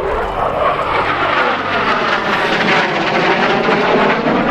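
F-16 Fighting Falcon's jet engine as the fighter flies past, a loud, steady roar whose sweeping tone bends down and back up as it goes by.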